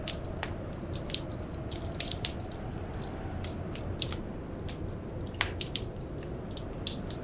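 Wood fire crackling: irregular sharp pops and snaps, several a second, over a steady low rushing background.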